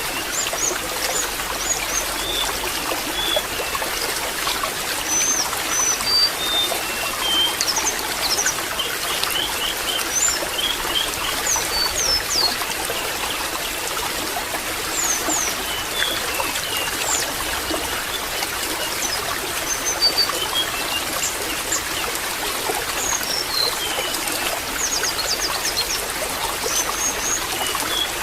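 Water trickling and babbling steadily, with small birds giving short, high chirps now and then.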